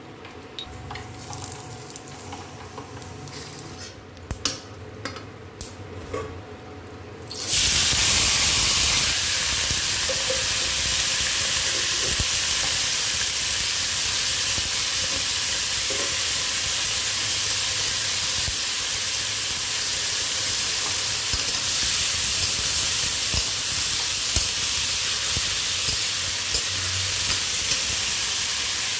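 Hot vegetable oil in a pan: a few light clicks and taps, then about seven seconds in a sudden loud sizzle as food goes into the oil, settling into steady frying with stirring.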